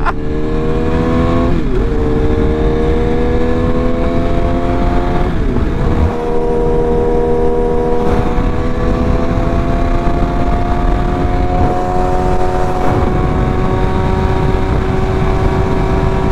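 BMW S1000RR inline-four engine pulling at highway speed, its note climbing slowly with an upshift about a second and a half in and another about five seconds in, then holding a steady note in a high gear. Constant wind rush runs underneath.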